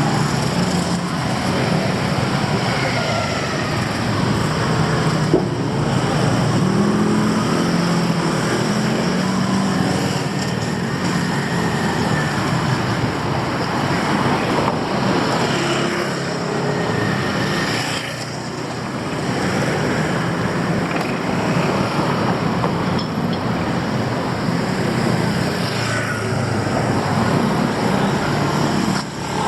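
City street ambience: steady traffic noise from passing cars and other motor vehicles, with faint voices of passers-by mixed in.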